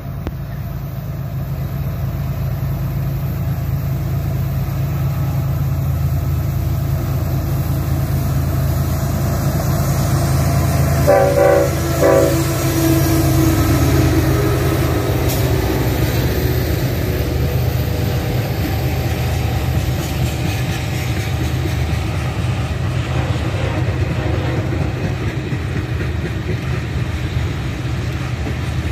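Train running by with a steady low engine drone; its horn sounds a short blast about eleven seconds in.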